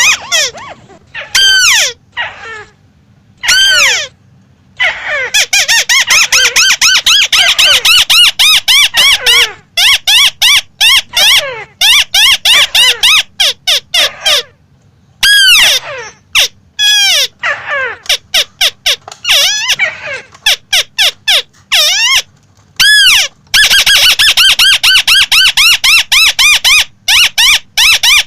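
A crake (burung tikusan) calling: fast runs of short, squeaky arched notes, several a second, repeated in bursts with brief pauses between them.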